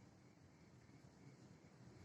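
Near silence: faint, steady room tone with a low background hum.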